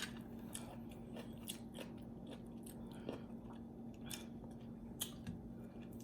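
Close-miked chewing of food: irregular soft, wet mouth clicks and light crunches, a few every second.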